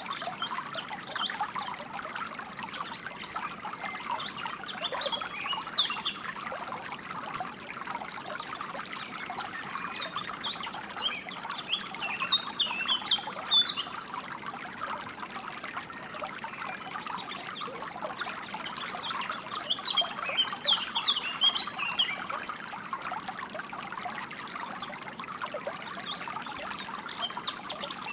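Small stream trickling and babbling steadily, with songbirds chirping in spells of quick high notes that come and go every several seconds.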